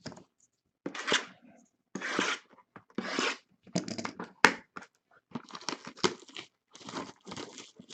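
Trading-card box packaging being torn open by hand: several separate rips about a second apart, a sharp click, then a run of crackling and crinkling.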